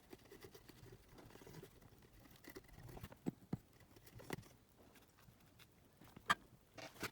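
Faint scraping and rustling as a cassette player is handled during repair, with a few light, sharp clicks from about three seconds in; the loudest click comes near the end.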